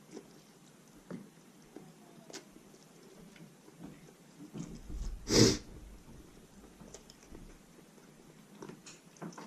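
Close-up mouth sounds of someone chewing roast chicken drumstick meat: scattered small wet clicks and smacks, with one louder breathy noise about five seconds in.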